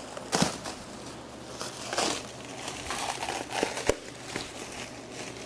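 Plastic bag crinkling and rustling in several bursts as it is worked off a new engine short block, with one sharp click a little before four seconds in.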